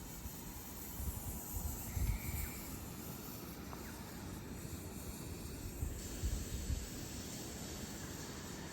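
Steady hiss, with two spells of low rumbling wind buffeting the microphone, about a second in and again about six seconds in.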